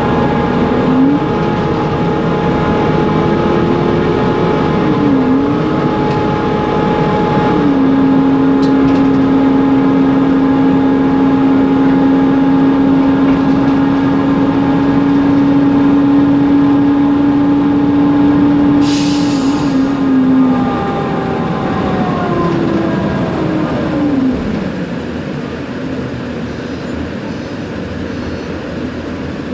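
Mercedes-Benz Conecto NGT city bus heard from inside, with its OM 936 G natural-gas engine, cooling fan and ZF six-speed automatic drivetrain running. The whine dips and recovers a few times in the first several seconds as the gearbox changes gear, then holds steady. It falls away after about twenty seconds as the bus slows, with a short hiss of air just before.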